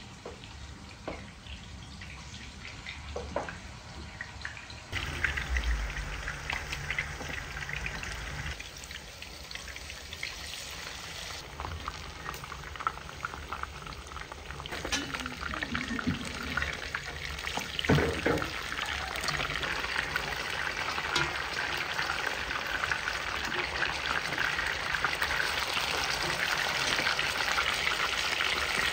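Food frying in hot oil in a pan: a crackling sizzle that sets in suddenly about five seconds in and grows louder toward the end.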